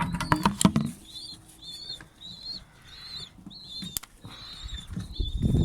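Bird chicks peeping: a run of short, high, thin calls repeating about twice a second. A few sharp clicks and knocks of handling come in the first second, and one more about four seconds in.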